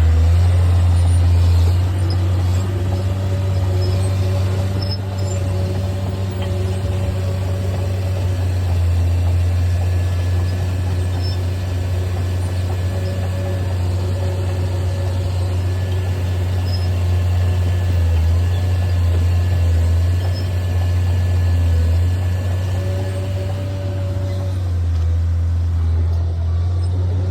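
John Deere 750J crawler dozer's diesel engine running at a steady speed, with a few brief dips. The dozer is being run after a repair of its hydrostatic drive's PCP coil circuit.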